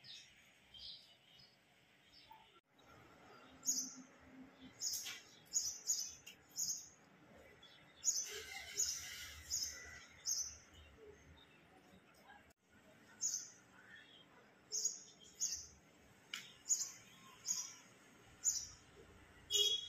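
A bird chirping: repeated short, high chirps in runs of several, about two a second.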